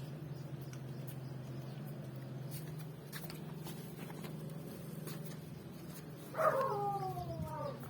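A steady low hum, then about six seconds in a single animal cry lasting about a second that falls in pitch.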